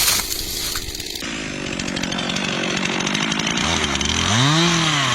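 Chainsaw running loud, a noisy stretch for the first second giving way abruptly to a steady engine note. About four seconds in the engine revs up and drops back, then holds a steady pitch.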